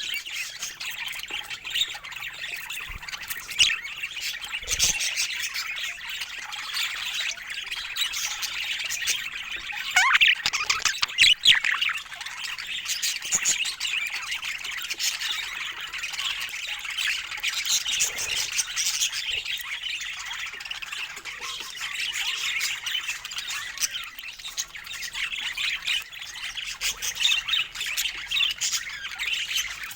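A group of budgerigars chattering and chirping without a break, with a few louder squawking calls about ten to twelve seconds in.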